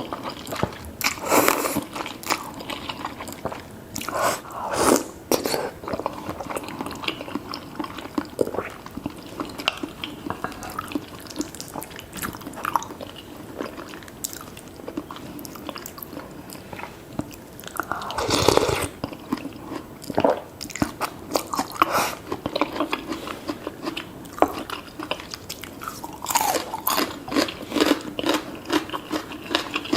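Close-miked eating of spicy seafood noodle soup with tofu: continual chewing and wet mouth clicks, broken by a few longer, louder bursts of noise, the loudest about eighteen seconds in.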